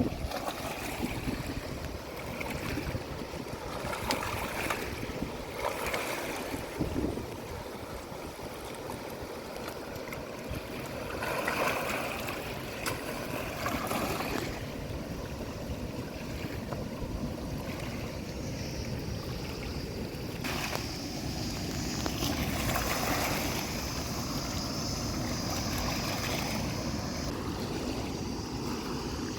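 Steady rush of flowing water, with low wind rumble on the microphone.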